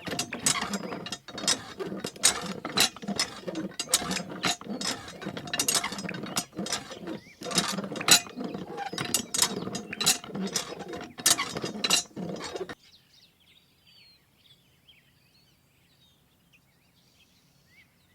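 Crank of a toy hand water pump being turned, making rapid, uneven ratcheting clicks that stop suddenly about 13 seconds in. Faint bird chirps follow.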